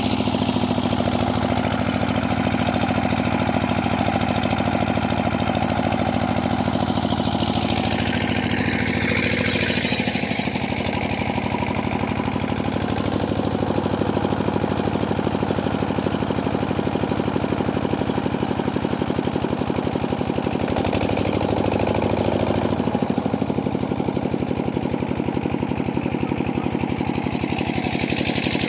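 8 HP single-cylinder diesel water-pump engine running steadily at a constant speed, with a fast, even beat.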